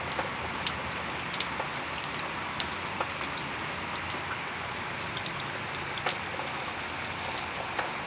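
Heavy rain falling steadily, with a dense hiss and many sharp drops tapping on nearby surfaces.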